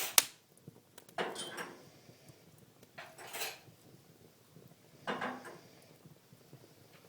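Wood fire crackling in a fireplace: a sharp pop at the start, then short bursts of crackling every couple of seconds, with quieter stretches between.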